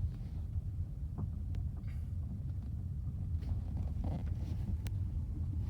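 Steady low rumble of a Ford car's cabin while riding, with a few faint clicks.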